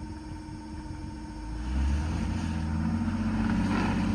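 Off-road vehicle's engine idling, then revving up about a second and a half in and holding a steady, louder pitch under load as the vehicle is bumped up onto a rock ledge.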